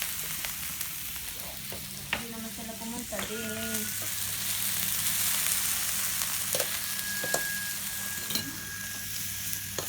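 Food sizzling on a hot tabletop grill: a steady frying hiss with occasional clicks of utensils. A brief pitched sound comes twice, about two and three seconds in.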